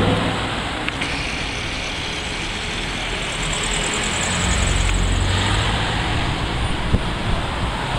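Bentley Continental GT V8's twin-turbo 4.0-litre V8 and exhaust as the car pulls away and drives off, the low engine note swelling about halfway through as it accelerates.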